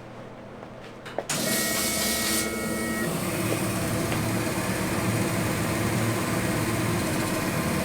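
RMLaser RM960 CO2 laser engraver-cutter starting a job about a second in, with a sudden burst of hiss and steady high whining tones. It then settles into a steady mechanical whir as the machine runs its engraving pass.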